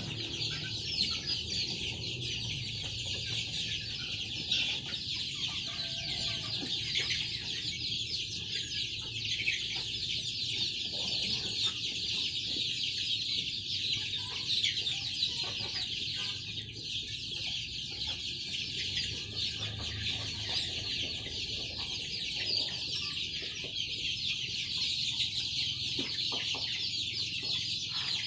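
A flock of ayam kampung (Indonesian free-range village chickens) calling together in a dense, steady, high-pitched chorus of clucks and cheeps.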